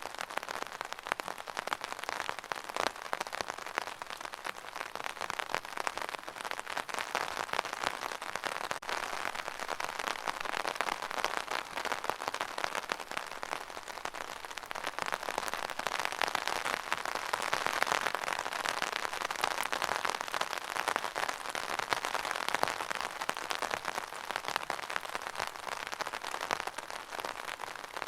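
Steady rain, a dense hiss made of countless small drop ticks, growing a little louder for a few seconds past the middle.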